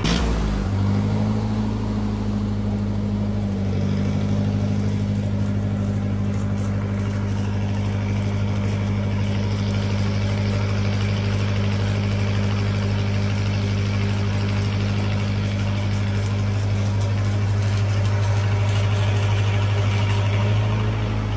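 Lincoln SA-200 Pipeliner welder's engine running steadily at constant speed, its pitch dipping briefly and recovering right at the start.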